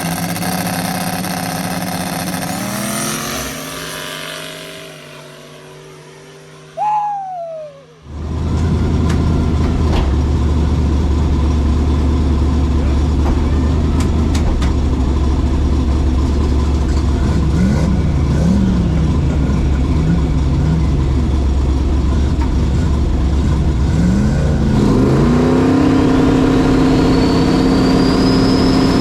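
Drag-race car engines: an engine's pitch falls away over the first several seconds, then a loud, deep idle rumble with a few short throttle blips, and near the end the revs climb steadily.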